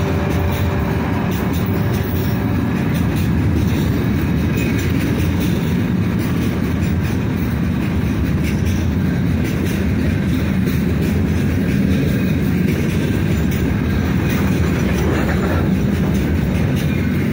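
Freight train of open gondola wagons rolling past close by: a steady low rumble of steel wheels on rail.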